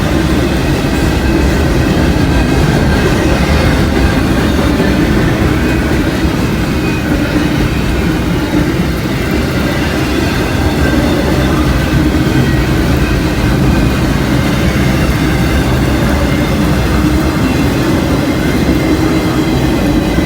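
Freight train cars rolling past at close range: a steady, continuous rumble of wheels on rail.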